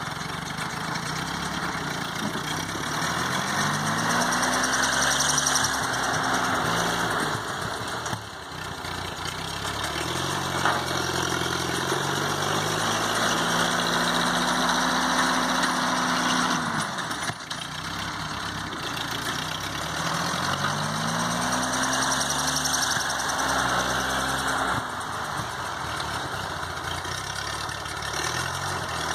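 1952 Ford 8N tractor's four-cylinder gas engine running under load while plowing snow, revving up, holding for a few seconds and easing off again, three times.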